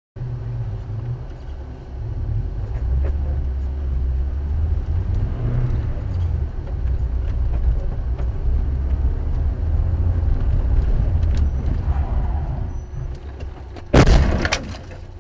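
A car driving, with a steady low rumble of engine and road noise. Near the end comes a sudden loud bang lasting under a second, of the kind a collision impact makes.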